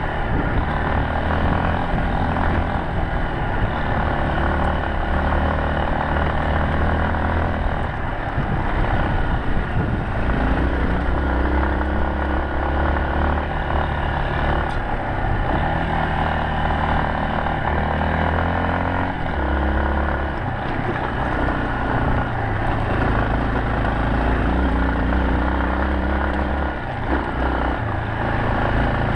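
Yamaha Serow 250 single-cylinder four-stroke engine running under way, its note rising and falling with the throttle and easing off briefly a few times.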